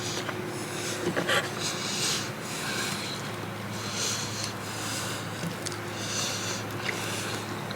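A person breathing through the nose close to the microphone, a breath about every two seconds, over a steady low hum.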